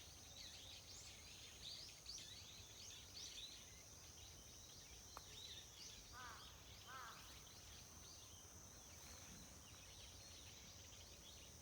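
Faint chirping of small birds, many quick high notes in the first half, with two short, lower calls a little past halfway, over a steady high-pitched hiss.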